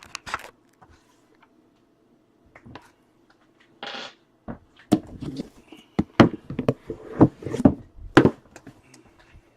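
Handling noise from a cardboard mailing box being moved on a table. There are a few light clicks, a short scraping rustle about four seconds in, then a run of knocks and thuds, all over a faint steady hum.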